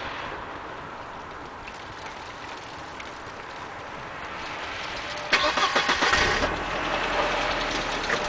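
Steady faint hiss, then about five seconds in an engine is cranked and catches with a loud rattling burst, settling into a steady low idle.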